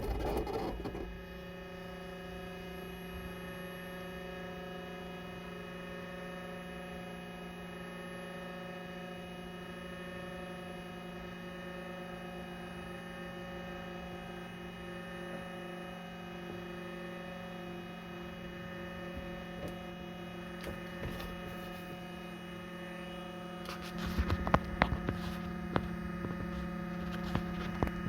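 Steady electrical hum made up of several fixed tones. About 24 seconds in it grows louder, with scattered clicks.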